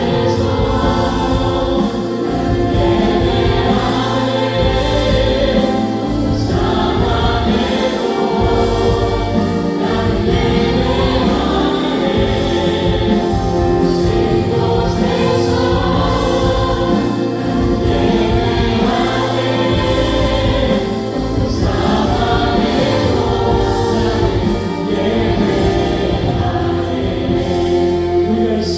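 Live church praise band of keyboards, synthesizer, electric guitar, bass guitar and drums playing a worship song, with many voices singing together over it.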